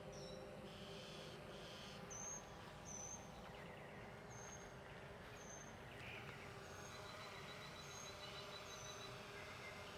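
Faint outdoor ambience: a bird repeating short, high chirps about once a second over a steady low hum.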